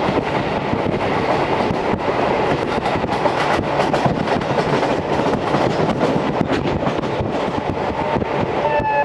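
JR Series 711 electric multiple unit running on the line, heard through an open window: steady wheel and rail noise with rapid clicks and clatter over the track. A high whining tone comes in near the end.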